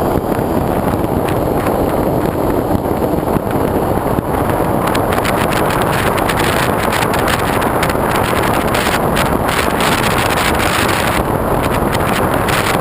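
Steady, loud wind rush over the microphone of a GoPro mounted on the wing of a foam RC airplane in flight.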